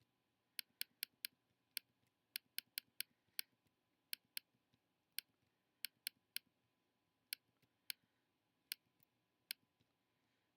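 Computer mouse button clicking about twenty times at an irregular pace, sometimes in quick pairs, as a retouching brush is dabbed over spots.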